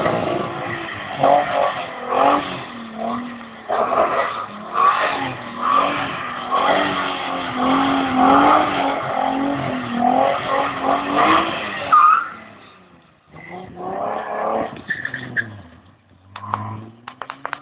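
Nissan 300ZX's V6 engine revving up and down repeatedly while the car slides around on wet asphalt, with tyre skid noise. About twelve seconds in the sound drops away and turns quieter and patchy.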